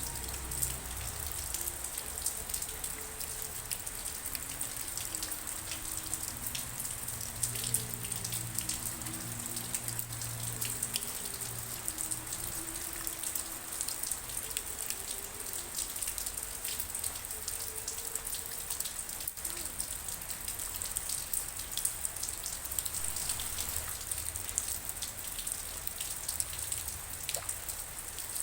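Steady rain falling on a surface, with many small drop ticks over an even hiss.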